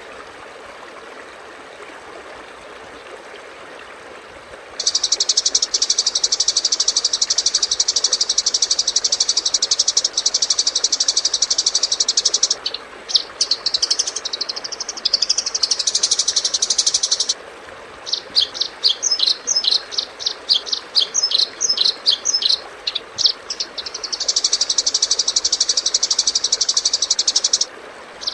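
Masteran recording of insect and bird calls for training caged songbirds. After about five seconds of faint hiss comes a high, continuous buzzing trill, then quick varied chirps and a rapid run of short sharp notes, and the buzzing trill again near the end.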